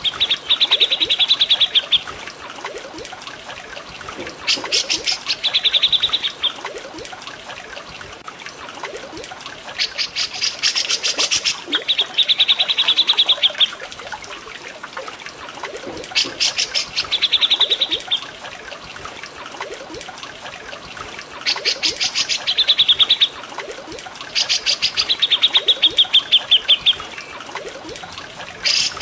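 A songbird's repeated phrase from a looped bird-training recording: a fast rattle of notes, then a rapid high trill, sounding about every five seconds. Under it runs a steady trickle of flowing water.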